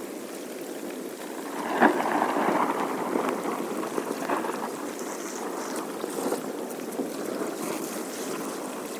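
Floodwater rushing and splashing as it drains through a storm drain. A sharp knock comes about two seconds in, and the water gets louder just after it.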